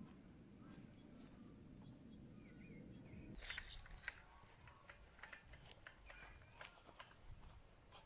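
Faint outdoor ambience: a low rumble with a few small bird chirps for the first three seconds, then a run of light clicks and rustles.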